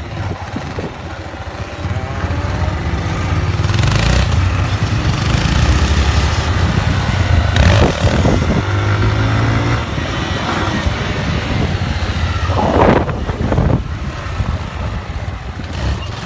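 A motor running steadily, its pitch rising and falling, with loud rushes of noise about four, eight and thirteen seconds in.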